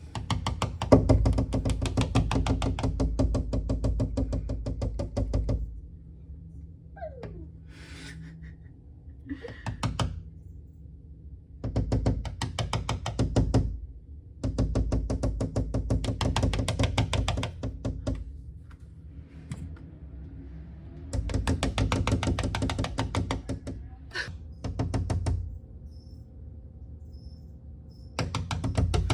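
Cockatiel knocking its beak in rapid runs of taps, five runs of two to six seconds each with short pauses between.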